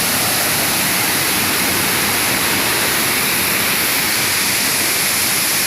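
A waterfall: water falling and splashing in a steady, loud rush.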